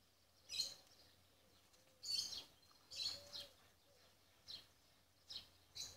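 Faint, short, high-pitched bird chirps, about six of them at irregular intervals.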